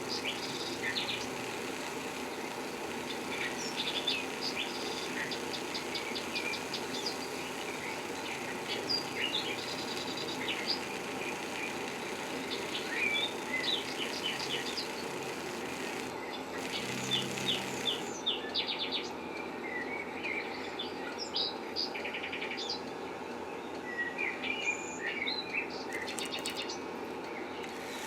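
Small birds chirping and trilling again and again, with short high calls and quick rattling trills, over a steady low hum.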